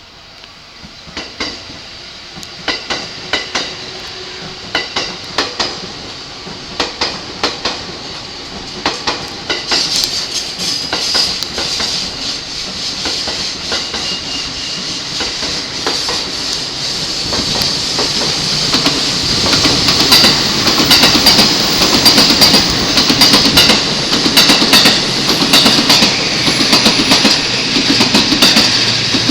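Electric commuter train at a station platform, its wheels clicking in pairs over rail joints, with the rumble and hiss of the train growing steadily louder as it comes close.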